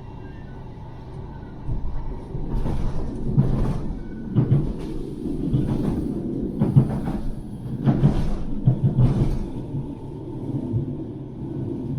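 Manchester Metrolink light-rail tram running with a steady low rumble, with a series of irregular knocks and clacks about a second apart as it comes into a stop.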